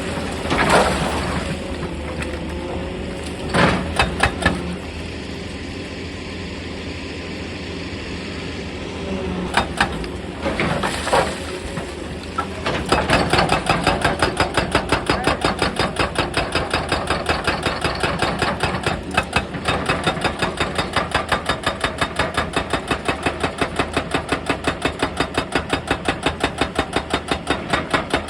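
A diesel excavator engine runs steadily, with a few loud knocks of rock in the first half. About halfway through, a hydraulic breaker hammer starts pounding rock in a fast, even rhythm of about three blows a second.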